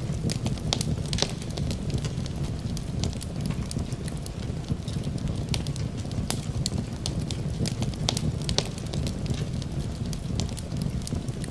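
Crackling wood fire: frequent sharp pops and snaps over a steady low rumble of the flames.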